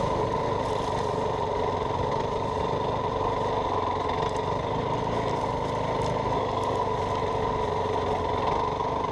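Yamaha WR450F dirt bike's 450 cc single-cylinder four-stroke engine running at a steady pitch, without revving up or down.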